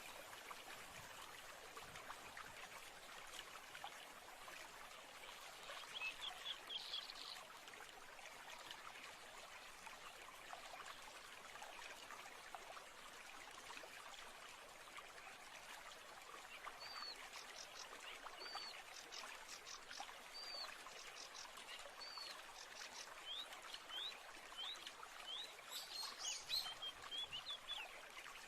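Soft, steady running water of a stream with birds chirping: a brief cluster of chirps about six seconds in, then, in the second half, a bird repeating a short call every second or so, ending in a quick flurry of chirps near the end.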